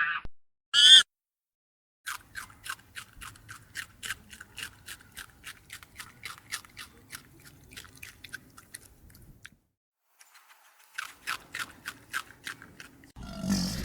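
Quick, regular crunching strokes, about four or five a second, of an animal chewing. They stop for a moment and start again near the end. A short high call comes about a second in.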